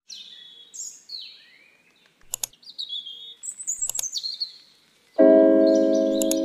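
Small birds chirping, a string of short, high, descending whistled calls, with two brief clicks among them. About five seconds in, a loud sustained piano chord comes in and becomes the loudest sound.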